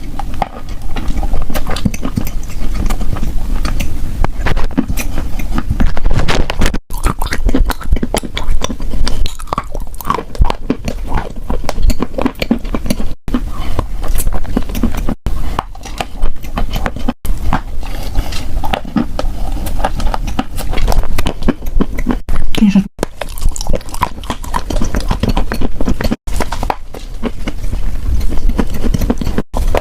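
Close-miked biting and chewing of edible chalk: a dense, continuous crunching and crackling, broken by a few very brief silent gaps.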